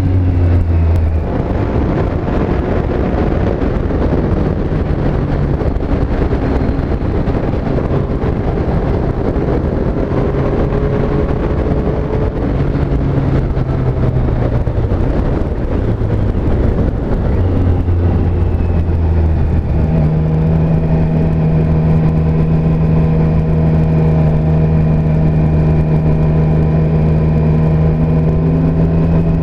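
Triumph Street Triple S inline-three motorcycle engine and exhaust under way, mixed with wind and road noise. The engine note wanders with throttle and gear changes, holds a steady pitch for the last several seconds, then starts to rise right at the end as the rider opens the throttle.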